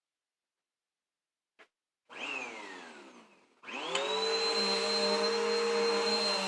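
Vacuum cleaner motor switched on: a click, a short start whose pitch falls away as it winds down, then about halfway through it starts again and spins up to a steady run with a high whine.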